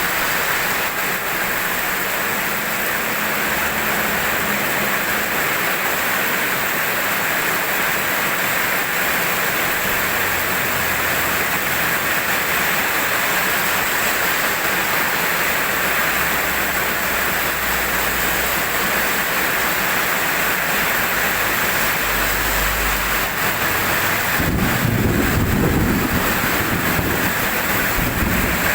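Heavy rain falling steadily in an even hiss, with a low rumble of thunder swelling up about three-quarters of the way through.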